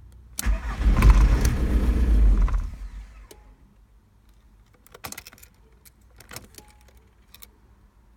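VW Golf Mk3's 1.9 TDI diesel engine cranked on the starter for about two seconds without catching, a no-start. Then a few light clicks and rattles follow.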